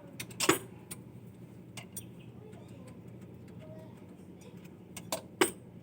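A few irregular sharp clicks or knocks, the two loudest about half a second in and near the end, over a steady low hum.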